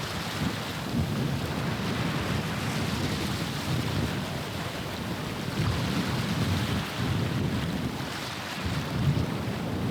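Wind buffeting the microphone in uneven low gusts, over a steady wash of water and waves.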